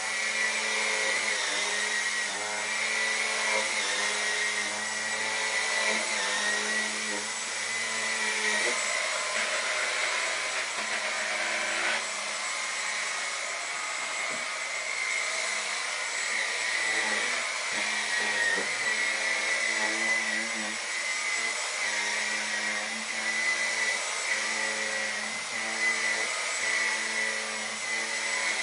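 Dyson V10 Animal cordless stick vacuum running with its turbine brush attachment on sofa upholstery: a steady high motor whine whose pitch wavers slightly as the head is worked over the cushions.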